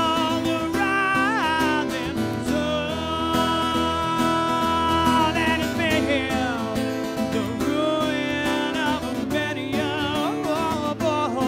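Live guitar music: an instrumental passage with a melodic lead line of bent, wavering notes over sustained chords.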